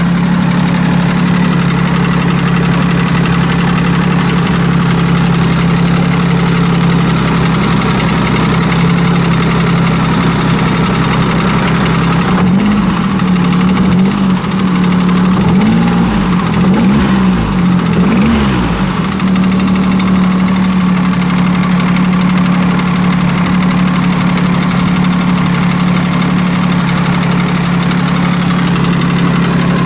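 Honda Beat's three-cylinder engine idling steadily on its first run after being refitted. About halfway through it is revved briefly a few times, rising and falling in pitch, then settles back to a steady idle.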